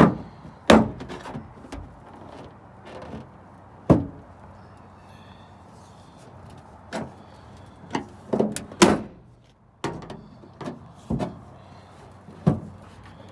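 Irregular metallic knocks and clunks as a steel tire bead bar pries the crunched fender edge of a 1982 Toyota pickup away from its door and the door is worked against it. There are about a dozen separate knocks, the loudest at the very start and a cluster about eight to nine seconds in.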